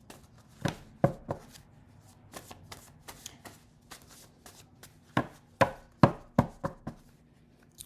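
Oracle cards being shuffled and handled, with sharp slaps of cards against a hard surface: three about a second in, light ticks between, then a quick run of about five near the end.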